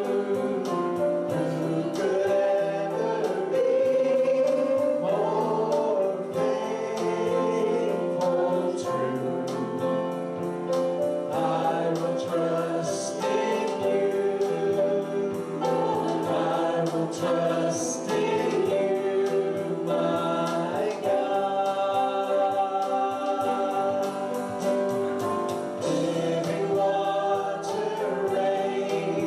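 Choir and congregation singing a gospel hymn with instrumental accompaniment.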